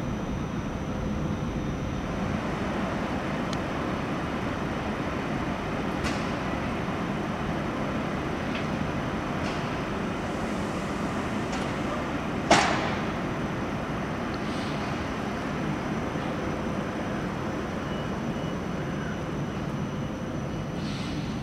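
Steady noise of a train at a railway station platform, with one sharp bang a little past the middle and a few fainter clicks.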